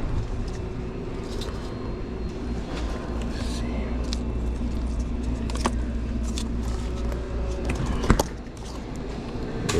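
Steady low hum of indoor store background with scattered light clicks and rattles, and one sharper knock about eight seconds in.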